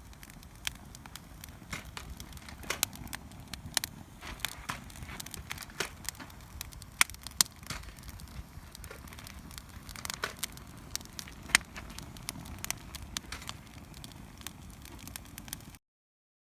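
Wood fire crackling in a small fire pit: irregular sharp snaps and pops over a faint low background. It cuts off abruptly near the end.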